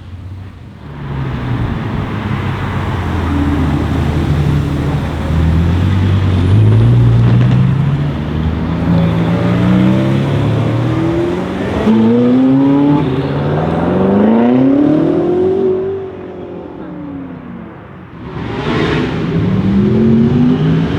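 BMW M5 F90 Competition's tuned twin-turbo V8 accelerating hard through several gears. The engine note climbs, drops back at each shift and climbs again. Near the end it eases off with a short sharp burst of noise, then builds again.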